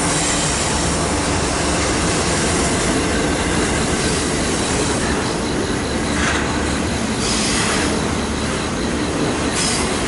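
Union Pacific intermodal freight train's cars rolling past close by: a steady loud rumble of steel wheels on rail. Several brief higher squeals from the wheels come partway through.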